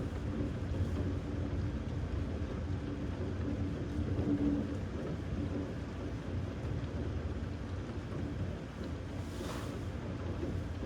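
Thunderstorm: a steady low rumble of distant rolling thunder under a wash of rain noise.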